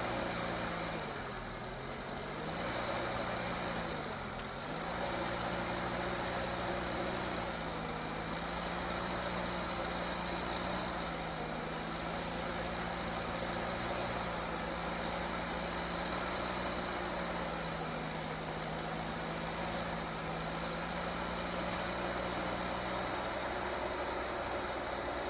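A heavy vehicle's engine running. Its pitch dips and comes back up twice in the first five seconds, then holds a steady, idle-like note.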